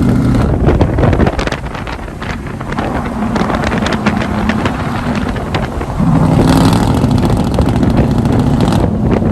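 Pickup truck engine and exhaust running, softer for a few seconds then louder again about six seconds in, with wind buffeting the microphone.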